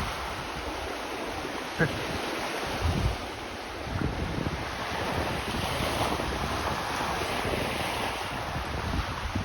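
Small lake waves washing onto the shore of Lake Ontario, with wind buffeting the microphone in low gusts. A short sharp click about two seconds in.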